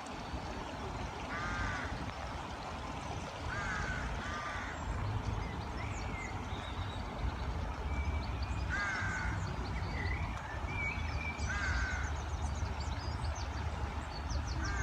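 Birds calling: a harsh call repeats about five times, a few seconds apart. Higher, thinner chirps come in toward the end, over a steady low rumble.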